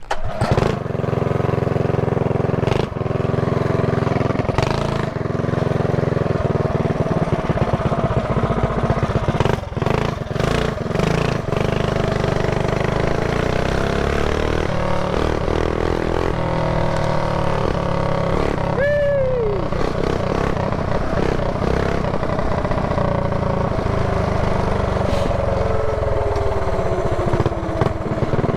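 Mini bike's small gas engine running as it is ridden, its note rising and falling with the throttle. About 19 seconds in, a short whine sweeps downward in pitch.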